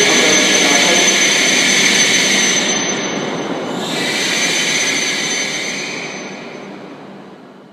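Shinkansen train running by: a loud rush of wheel and air noise with a thin, steady high whine. It dips briefly, swells again, then fades away.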